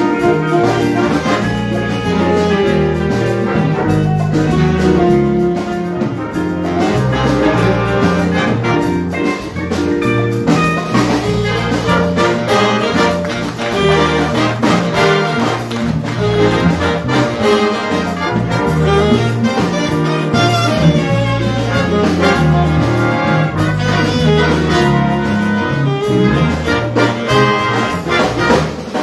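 A high school jazz big band playing, with trumpets, trombones and saxophones over a walking bass and drums.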